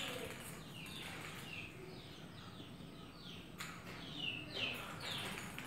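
Small birds chirping over and over in short, high, falling notes. A couple of light knocks come in the second half.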